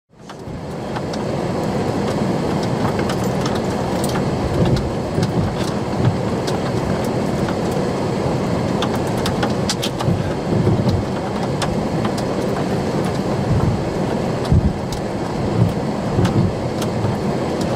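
Steady rumble of a vehicle with rain ticking and pattering on it, scattered sharp drops throughout.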